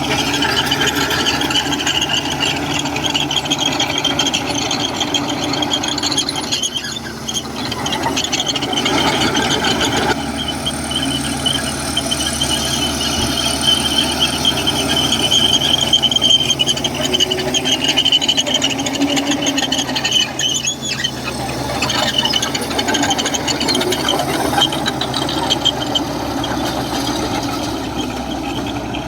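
Komatsu crawler bulldozer at work: a continuous high, wavering metallic squeal, typical of steel crawler tracks, over the steady running of its diesel engine.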